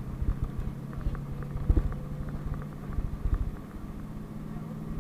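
PAZ-32054 bus running along the road, its engine humming steadily. Irregular low knocks and rattles come through over bumps, the loudest jolt just under two seconds in.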